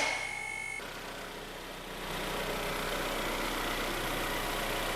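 Hyundai/Kia G4KD 2.0-litre four-cylinder engine idling steadily, freshly rebuilt after an overhaul. It gets slightly louder about two seconds in.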